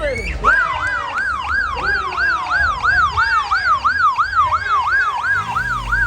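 An emergency-vehicle siren on a fast yelp, its pitch sweeping up and down about three times a second.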